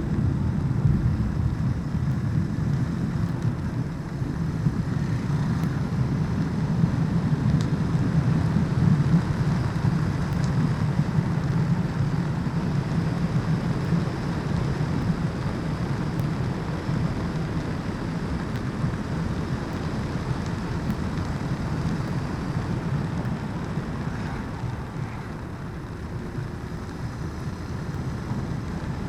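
Motorcycle running steadily at road speed, its engine rumble mixed with wind rushing over the microphone; it eases off slightly near the end.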